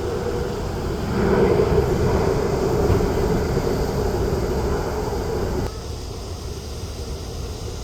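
Jet airliner engine noise: a steady rumble with a droning hum, swelling about a second in, then dropping suddenly to a quieter rumble near the end.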